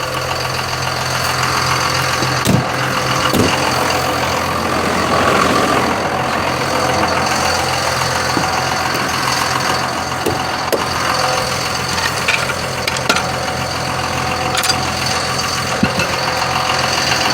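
A vehicle engine idling steadily, with a few short, light knocks scattered through it.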